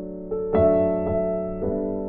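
Soft background piano music: single notes and chords struck about once a second, each left to ring and fade.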